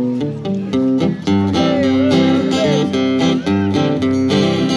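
Acoustic guitar strumming chords in a steady, bouncy country-style rhythm, the accompaniment to a sing-along song.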